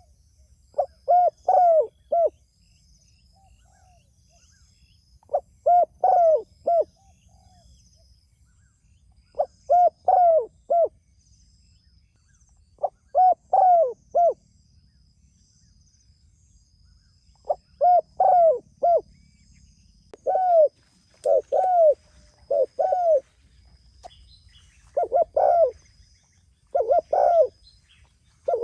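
Spotted dove (tekukur) cooing: repeated phrases of three or four short, arching coos, a phrase every few seconds, coming closer together in the second half. Faint high-pitched chirping runs underneath.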